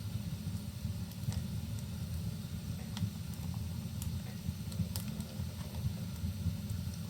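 Wood fire burning in a fireplace, giving a handful of sharp, scattered crackles and pops over a steady low rumble and a faint hiss.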